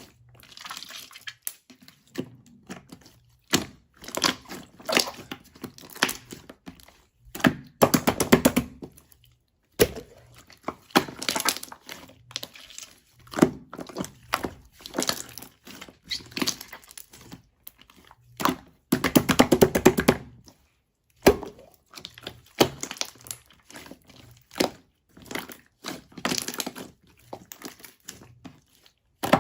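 Clear slime being squeezed and pressed by hand, giving clusters of crackling clicks and small bubble pops with short pauses between them.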